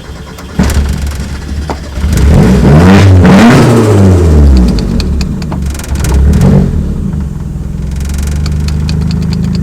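Turbocharged Mazda Miata four-cylinder engine under hard acceleration, loud, its pitch climbing and dropping several times, then running at a steady drone.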